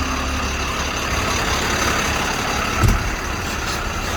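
Truck engine running steadily, with a single heavy thump about three seconds in.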